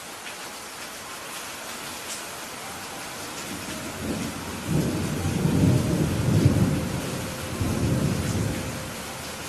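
Steady rain falling, with a low roll of thunder that builds about four seconds in, rumbles in two swells and fades out near the end.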